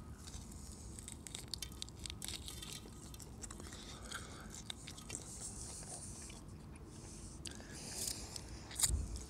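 A person chewing crisp pan-fried cleavers (goosegrass), a run of small, irregular crunches close to the mouth.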